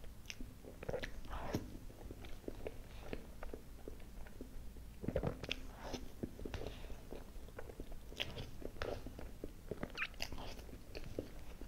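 Close-miked chewing of cream-frosted sponge cake with mango pieces: soft mouth sounds broken by short clicks, which come more often about halfway through and again near the end.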